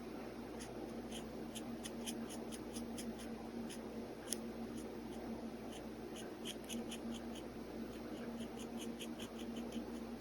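Pen nib scratching on paper in quick, short sketching strokes, several a second, coming in runs with brief pauses between them. A faint steady hum sits underneath.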